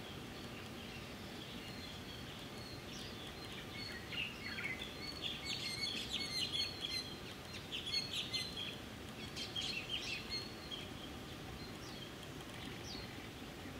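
Small birds chirping in a quick flurry of short, high calls from about four seconds in until near the end, over a steady outdoor background hiss.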